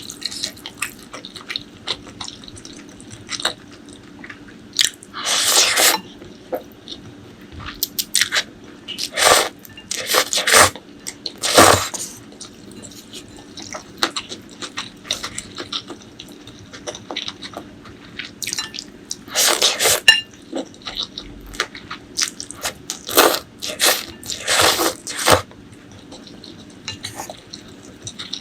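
Close-miked eating: irregular biting and chewing with wet smacking, broken up by a few longer, louder bursts of about a second each.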